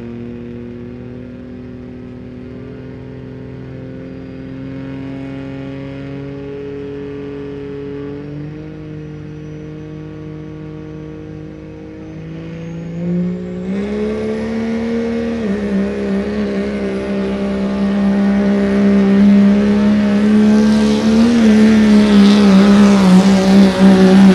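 Pulling truck's engine running steadily at low revs, then revving up about halfway through and holding high revs under load, getting louder toward the end as it makes its pull.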